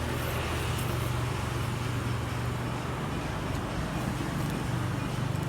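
Steady motor vehicle engine and road noise, a constant low hum with a noisy rush over it.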